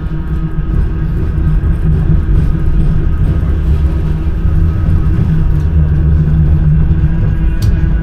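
Manchester Metrolink M5000 tram running along the line: a steady low rumble from the wheels and running gear with steady humming tones from the traction equipment, swelling slightly over the first couple of seconds.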